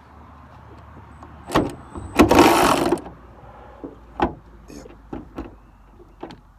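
Hand ratchet working a nut off a car's hood bracket. A couple of sharp clicks come first, then a fast burst of ratcheting a little over two seconds in, which is the loudest part, then scattered metal clicks and taps from the tool and the hardware.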